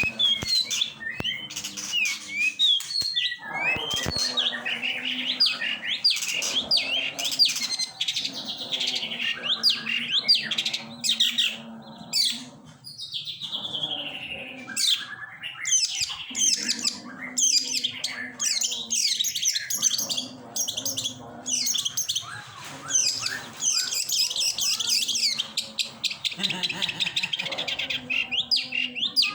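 Long-tailed shrike (pentet) singing: a long, almost unbroken run of rapid, varied chirps, whistles and chattering notes with only brief pauses.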